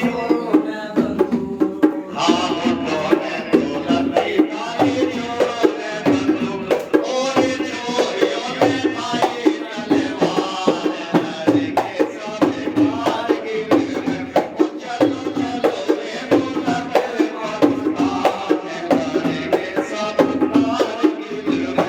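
Rasiya folk music: a melody over steady, rhythmic dhol drumming, the beats falling several times a second without a break.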